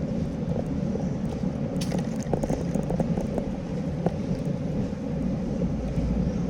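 Steady low rumble of wind and tyre noise while riding a bicycle, with a handful of short clicks and rattles in the middle.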